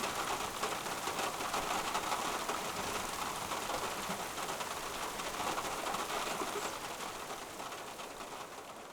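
Light rain falling, a steady hiss that slowly fades out toward the end.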